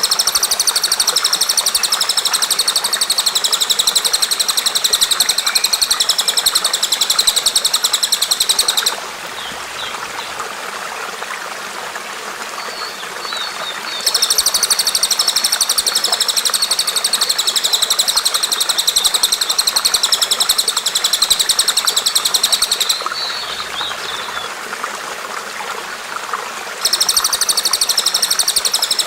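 Bird call of fast, high-pitched notes repeated in long chattering bouts of about nine seconds, with pauses of several seconds between them. A steady trickle of running water continues underneath.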